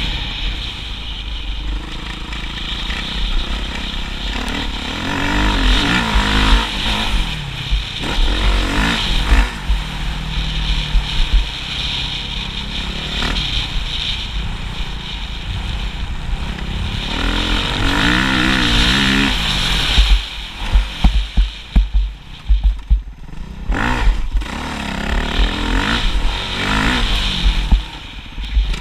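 Motocross motorcycle engine revving up and dropping back again and again, with gear changes, over a constant low rumble. About twenty seconds in comes a run of knocks and rattles.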